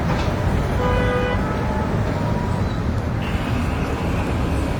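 Busy road traffic running steadily, with a vehicle horn sounding briefly about a second in.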